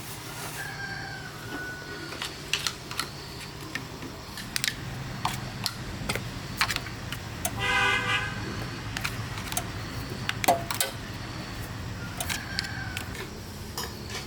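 Scattered sharp metallic clicks and knocks, like hand tools and loose metal parts being handled during engine disassembly, over a steady low hum. About eight seconds in there is one short, steady horn-like toot.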